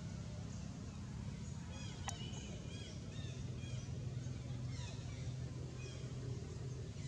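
Birds chirping in short, repeated notes over a steady low rumble, with one sharp click about two seconds in.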